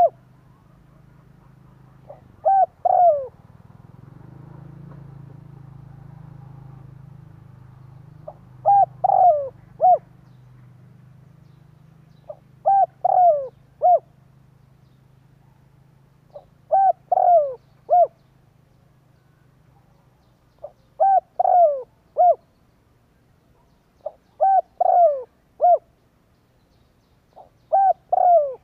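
Spotted dove cooing: a decoy bird's repeated call, each phrase three or four short falling coos, about every four seconds, seven times, over a faint low hum. This is the call used to lure and provoke wild spotted doves.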